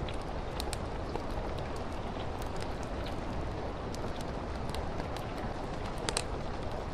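Steady rain with a crackling fireplace: an even wash of rain overlaid by scattered small snaps and ticks, with a louder snap about six seconds in.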